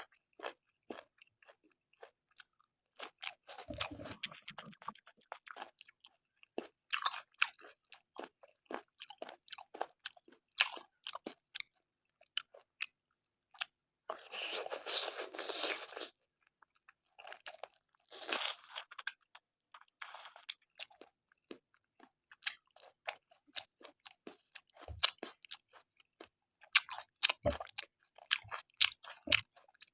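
Close-miked chewing and crunching of a mouthful of pork curry and rice, with many short wet mouth clicks and a few longer spells of crunching, the longest about a quarter of the way in and around the middle.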